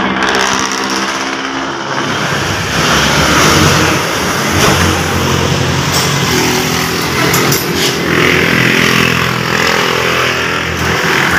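Motor vehicle engine running, its pitch drifting up and down, with a few light clicks around the middle.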